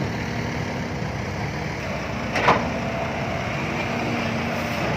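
Diesel dump truck engine running steadily, with a brief high gliding squeak about halfway through.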